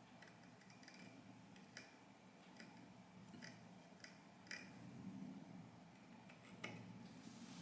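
Near silence: room tone with a dozen or so faint, irregular light clicks.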